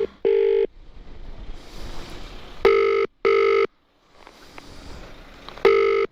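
Telephone ringing tone of an outgoing call, in the British double-ring pattern: pairs of short steady beeps repeating about every three seconds while the call waits to be answered.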